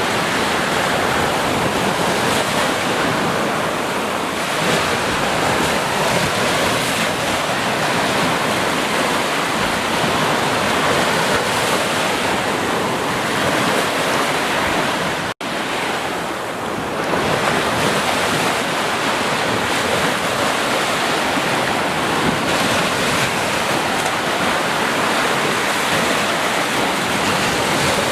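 Continuous rushing water: a steady, even wash with no pauses. The sound cuts out for an instant about fifteen seconds in.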